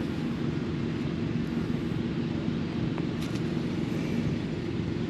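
Steady low engine drone from a distant motor vehicle or aircraft, with a faint click about three seconds in.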